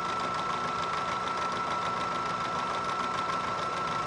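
Bridgeport vertical mill taking a roughing cut in A2 tool steel with a roughing end mill at a slow feed. It gives a steady high whine over a low, even hum.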